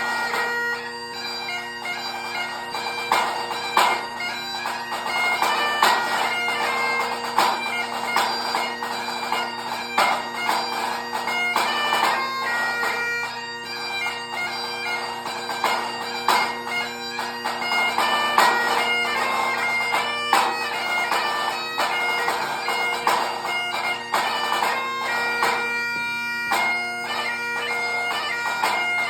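Great Highland bagpipe playing a competition tune over its steady drones, with a pipe band snare drum playing a solo drumming score along with it in quick, crisp strokes and rolls.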